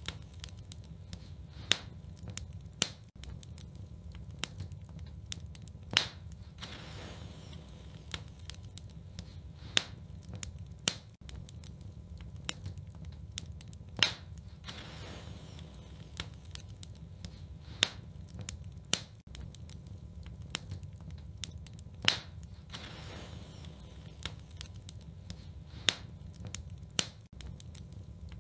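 Wood fire burning in a fireplace, crackling with sharp pops every second or two over a steady low rumble, with a few louder snaps.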